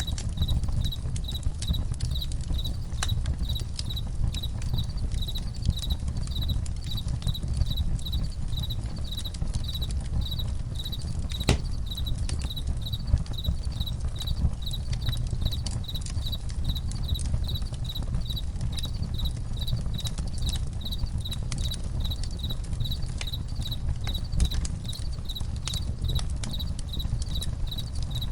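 A campfire crackling, with scattered sharp pops over a low steady rumble, while crickets chirp in a steady, fast, even pulse.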